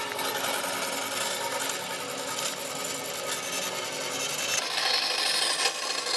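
A power tool working wood: a steady abrasive rasping over a motor hum, which changes in character about four and a half seconds in.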